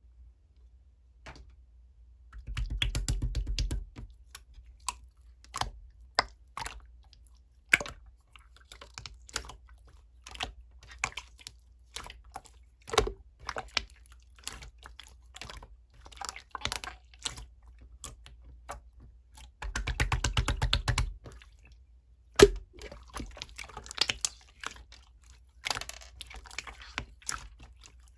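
Clear slime being squished and stretched by hand, giving wet clicks and small pops, with two longer runs of rapid crackling pops about two and a half seconds in and again about twenty seconds in.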